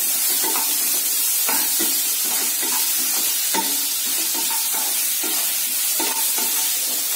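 Sliced onions and ginger-garlic paste sizzling in oil in a kadai, stirred with a wooden spatula in short, irregular scraping strokes over a steady hiss. They are being sautéed until the raw smell of the ginger-garlic paste is gone.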